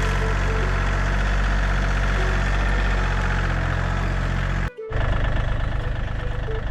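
Background music for about the first four and a half seconds, then a brief dropout and a John Deere 3320 compact tractor's diesel engine running, a fast low pulsing throb.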